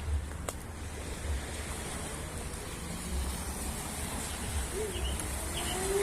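Wind buffeting the microphone over a steady outdoor rush of noise, with faint gliding tones coming in near the end.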